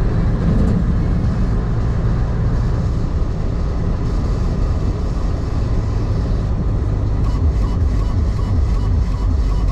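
Heavy truck's diesel engine running steadily under way, with a pulsing throb in the low end from about seven seconds in.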